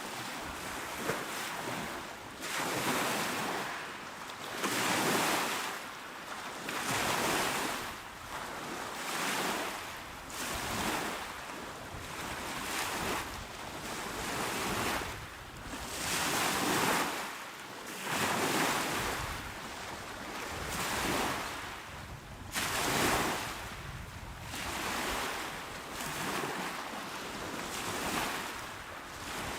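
Calm, small sea waves washing onto the shore. Each wave swells and recedes about every two seconds.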